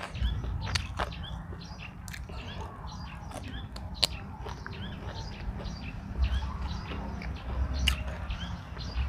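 Small birds chirping repeatedly in short calls, with wind rumbling on the microphone that swells near the end. A few sharp clicks stand out above them.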